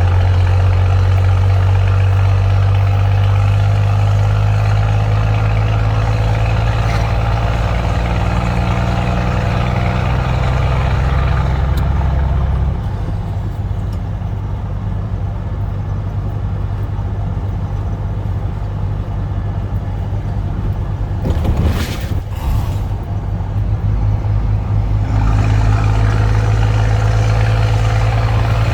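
Scania truck's diesel engine running through a straight-through exhaust, a loud, steady low drone that drops in level about halfway through. Brief hisses come about three-quarters of the way in, and then the engine note picks up again.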